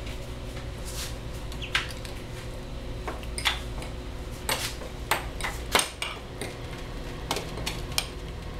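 Ducklings pecking at food in a dish: irregular sharp clicks and taps of bills against the dish, about a dozen, unevenly spaced.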